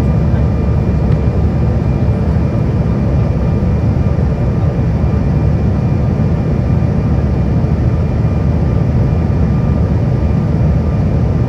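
Airliner cabin noise: the steady low rumble of jet engines and rushing airflow, with a faint steady high-pitched whine.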